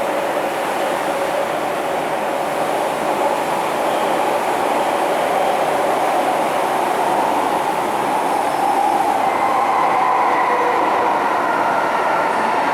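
MTR M-Train metro car running on the line, a steady rumble of wheels and traction equipment. About nine seconds in, a higher whine joins it.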